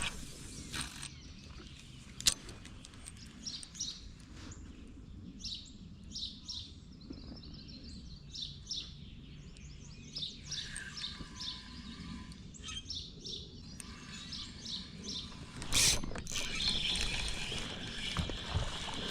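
Birds chirping and singing, with many short repeated chirps and a few held whistled notes, over small knocks from the kayak. Near the end a sharp knock is followed by a stretch of water sloshing.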